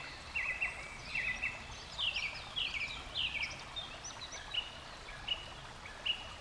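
A songbird giving a quick run of short chirps that thin out toward the end, over the steady rush of a forest stream.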